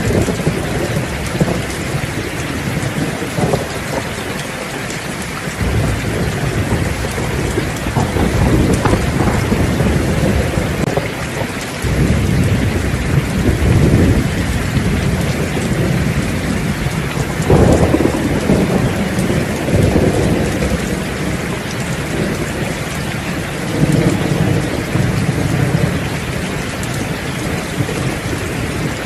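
Steady heavy rain with thunder rumbling again and again: low rolls swell and fade every few seconds, the sharpest about two-thirds of the way through.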